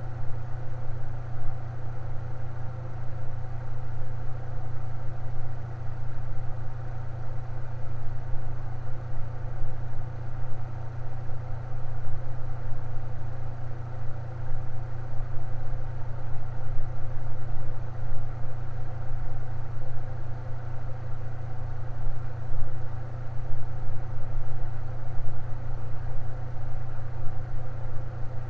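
Electric fan running steadily: a constant low hum with a fainter whir above it.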